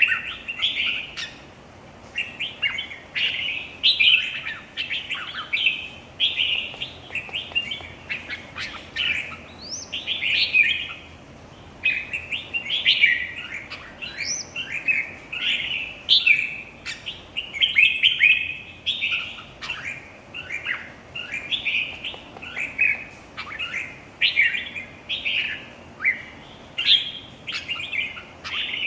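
Red-whiskered bulbul singing its competition song: short, bright, warbling phrases one after another, with brief pauses between them.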